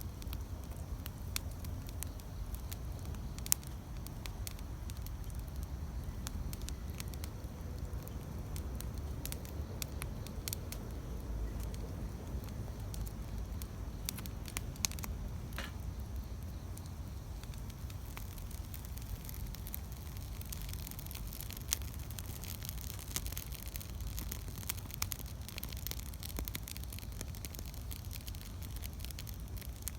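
Wood campfire burning with scattered sharp crackles and pops over a steady low rumble; the loudest pop comes about three and a half seconds in, and the crackling grows denser in the second half.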